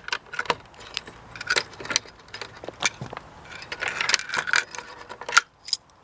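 Keys jangling and clinking, a run of irregular metallic clicks and taps.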